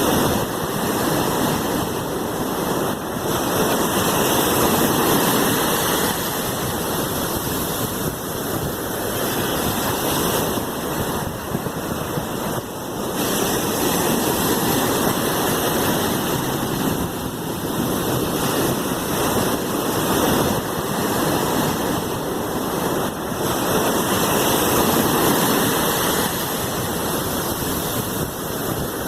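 Sea waves washing in: a continuous rushing surf that swells and eases every few seconds.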